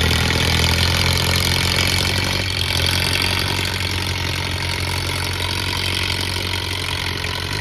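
Antique farm tractor engine running hard at a steady pitch under load, pulling a weight sled, with loudness easing slowly as it goes.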